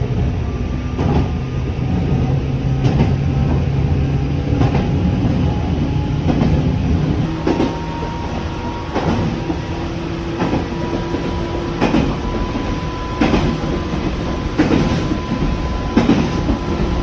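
A local electric train running, heard from on board: wheels clicking over rail joints every second or two over a steady traction-motor hum. The hum's pitch steps up about halfway through.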